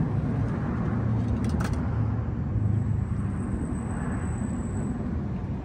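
Steady low rumble of road traffic, with a faint high whine in the middle and a couple of small clicks.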